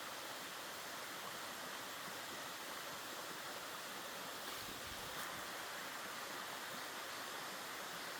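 Mountain stream flowing steadily, a constant rush of running water.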